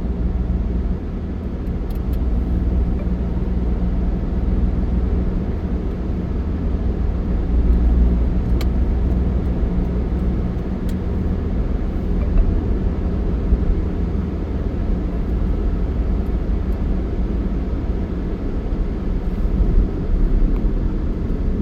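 Steady low rumble of a moving road vehicle, engine and road noise, with a few faint clicks.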